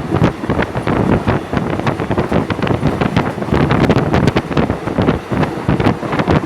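Train running at speed, heard through heavy wind buffeting on the microphone, with constant irregular knocks and rattles.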